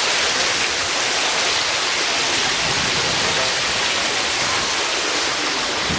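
Water pouring into the river, a steady, unbroken noise of falling water.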